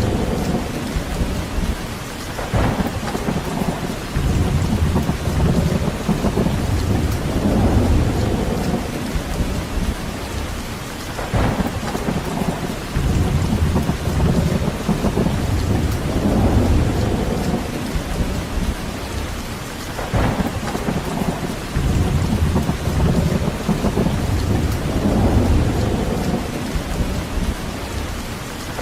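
Steady rain falling, a continuous hiss, with deep low rumbles swelling and fading every few seconds.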